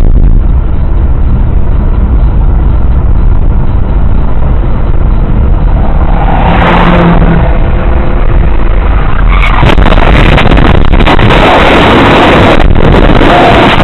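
Vehicle and road noise recorded by a dashcam: a steady low rumble, with a brief rush of hiss about six seconds in and a louder, sustained rushing noise from about nine seconds in.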